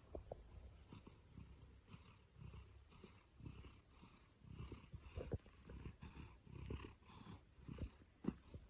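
Domestic cat purring close up, faint. The purr swells and fades with each breath, about once a second.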